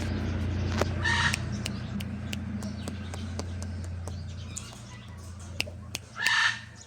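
Green pet parrot giving two short squawks, one about a second in and one near the end, over a steady low electrical hum and scattered light clicks.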